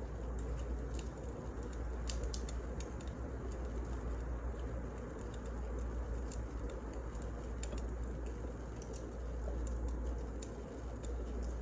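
Burning firewood crackling: irregular sharp snaps and pops scattered over a steady low rushing noise.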